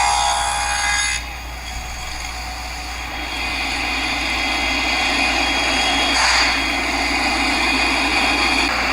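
Table saw running as a bevel cut is made on a wooden top bar. The cut ends about a second in, the motor then runs on steadily, and the sound rises again around six seconds in.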